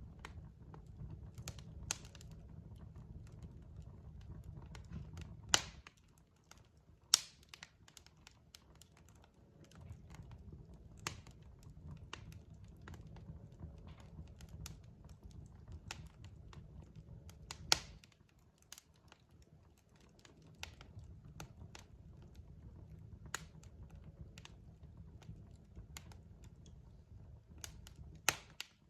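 Wood fire crackling in a fireplace: irregular sharp pops and snaps, a few much louder than the rest, over a low rumble that drops away twice for a few seconds.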